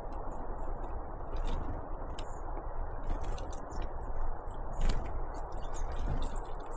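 Irregular sharp taps and clicks of great tits and blue tits pecking and landing at a feeder close to the microphone, over steady low background noise, with a few short faint high chirps.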